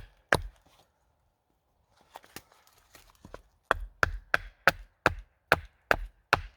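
Wood being chopped with quick, sharp strikes, about three a second: two strikes at the start, a pause with a few lighter taps, then a steady run of strikes through the second half.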